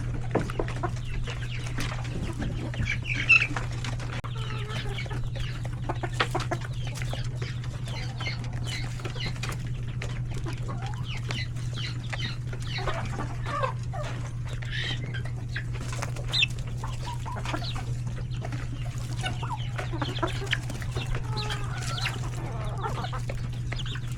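A flock of chickens and chicks clucking and peeping, with many short calls and clicks overlapping throughout, over a steady low hum.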